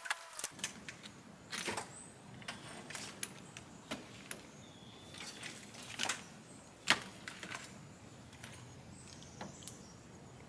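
Scattered light clicks and knocks at an irregular pace over a low steady background, the sharpest about seven seconds in.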